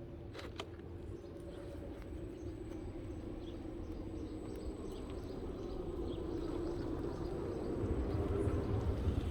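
Small electric motor and gearing with a steady whine that grows louder toward the end, with a couple of sharp clicks about half a second in.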